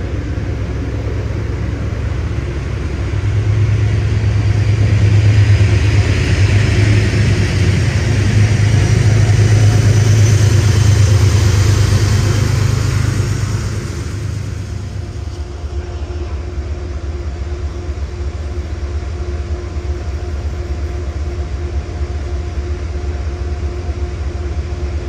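A train passing through the station: a low rumble builds a few seconds in, holds loud for about ten seconds with a faint high whine on top, then fades to a steadier, quieter running hum.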